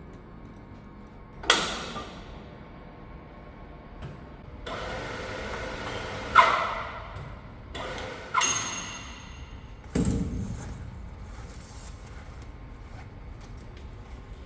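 Steel workpieces clanking together four times, each strike ringing out briefly, with a steady hiss for a few seconds in the middle.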